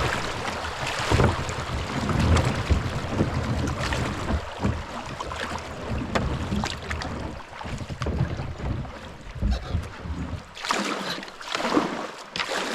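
Water rushing and splashing around a kayak running a fast, shallow creek, with wind buffeting the microphone and repeated low knocks against the hull. The splashing grows louder near the end.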